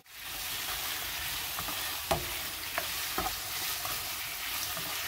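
Cubes of swordfish sizzling steadily in hot olive oil in a non-stick frying pan as they brown, with a few short knocks of a utensil stirring them about two to three seconds in.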